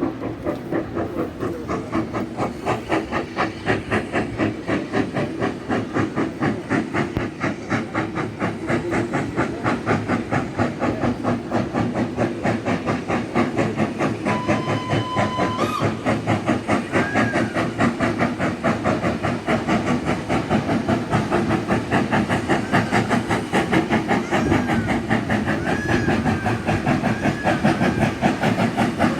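Hudswell Clarke 0-6-0 saddle-tank steam locomotive under way, its exhaust beating in a fast, even rhythm over steady steam hiss, growing louder towards the end. A short whistle note sounds about halfway through.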